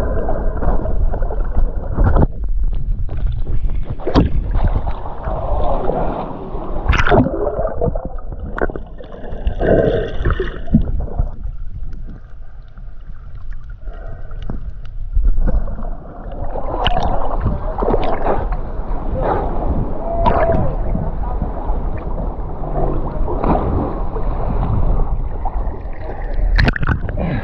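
Muffled gurgling and sloshing water with scattered knocks and splashes, the sound of swimming in the sea. There is a quieter stretch around the middle.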